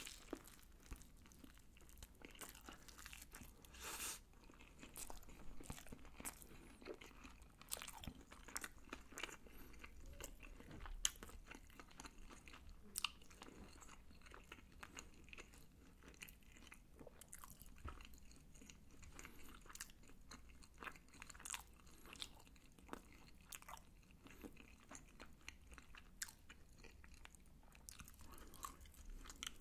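Close-miked eating of sauce-coated Korean fried chicken (yangnyeom chicken) and rice: a bite into the crisp battered chicken, then faint, irregular crunching and chewing, with a few louder crunches about 4, 11 and 13 seconds in.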